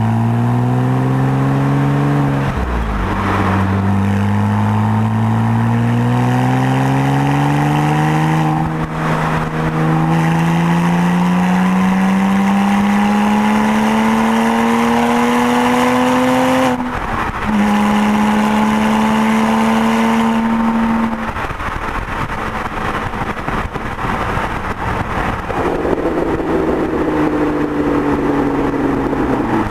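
Porsche 987 flat-six through a valved performance exhaust, accelerating hard through the gears: the engine note climbs in each gear and drops sharply at each of three upshifts. It then holds a steady note for a few seconds before the throttle is lifted and the note falls away quieter.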